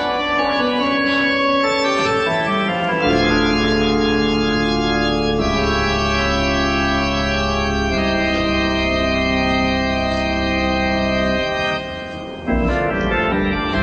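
Organ music: long sustained chords held for several seconds each, shifting to a new chord every few seconds, with a brief drop in loudness near the end.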